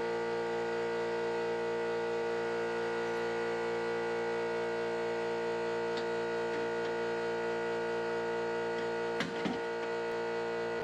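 Steady electrical hum made of several fixed tones, with a brief couple of knocks about nine seconds in.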